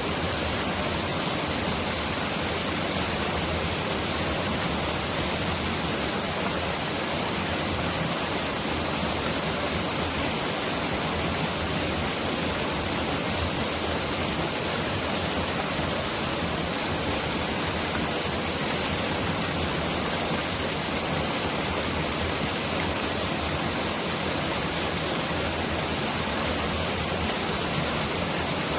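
Mountain valley stream flowing, a steady, even rush of water that sounds like a heavy downpour.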